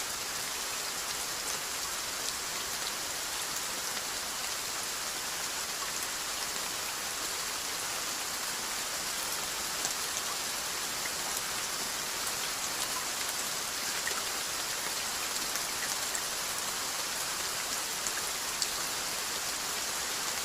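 Steady rainfall, an even hiss of rain on a surface with scattered individual drops ticking through it.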